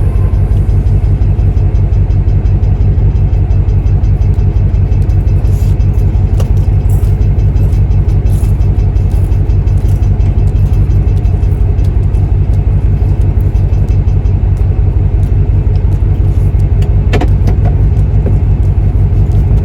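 Truck's engine and road noise heard inside the cab while driving: a loud, steady low rumble with a rapid, even pulse.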